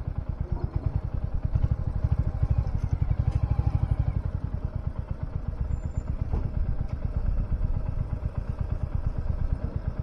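Royal Enfield Hunter 350's single-cylinder engine ticking over at low revs, a steady rapid low thumping.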